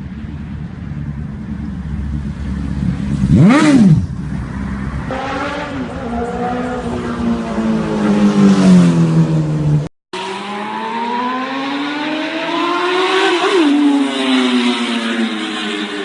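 Motorcycle engines revving hard, in separate clips cut together. The pitch shoots up and drops about three and a half seconds in, then slides down over several seconds; after a brief cut to silence near the middle, an engine climbs steadily in pitch and then falls away.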